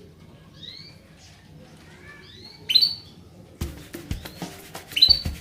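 Female canary calling: a series of short chirps and a few louder call notes. About two thirds of the way in, music with a knocking, wood-block-like beat starts up under the calls.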